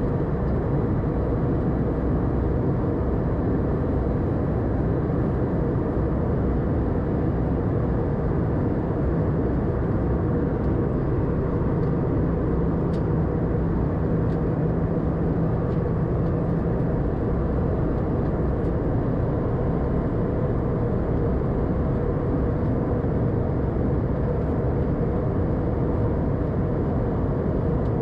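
Steady cabin noise inside an Airbus A320 in flight: the even rush of airflow and CFM56 engines heard from a window seat near the front. A low hum comes in for a few seconds around the middle.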